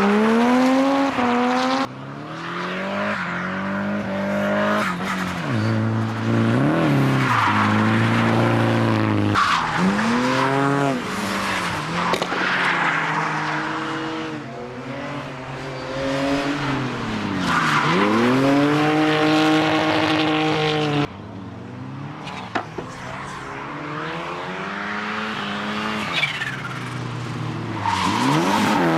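Drift cars at full throttle, engines revving up and lifting off again and again as they slide, with tyre squeal under the engine noise. The sound drops sharply twice, about two seconds in and again about twenty seconds later.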